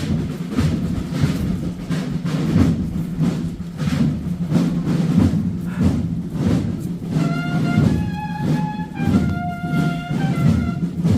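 Processional band music: a steady marching drum beat, joined about two-thirds of the way in by a brass instrument playing a few long held notes.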